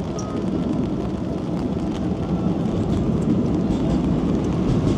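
Steady low rumble of passing vehicles, growing a little louder toward the end.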